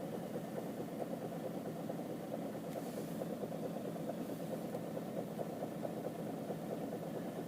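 Citroen C5 2.0 HDi four-cylinder diesel engine idling steadily with a rapid ticking clatter ("tsok-tsok-tsok"), which the owner thinks is probably clogged injectors.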